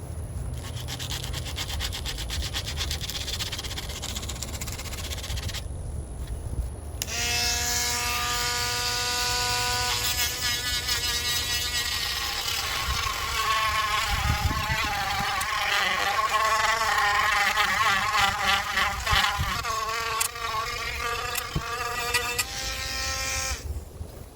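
Sanding the dent out of the aluminium top tube of a bicycle frame with 60 grit: a rasping scrub for the first few seconds, then after a short break a small electric sanding tool buzzing with a high whine whose pitch wavers as it is pressed against the metal.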